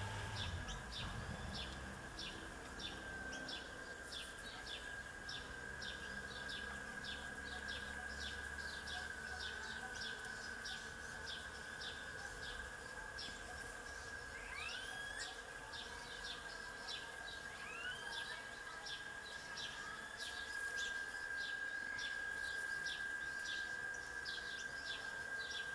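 Birds chirping in a tree: short, quick chirps repeated about three times a second without a break, over a steady high-pitched tone. Twice in the second half a rising whistle cuts across.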